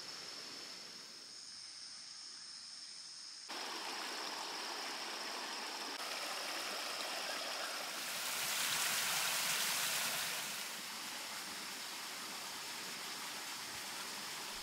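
Shallow mountain creek running over stones, a steady rush of water, with a thin high insect drone over it. The water gets louder about a third of the way in and louder still for a couple of seconds in the middle.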